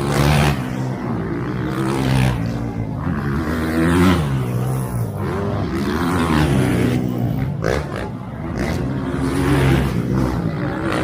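Motocross bike engines revving up and down as riders race around the track, the pitch rising and falling every couple of seconds, with more than one bike heard at once.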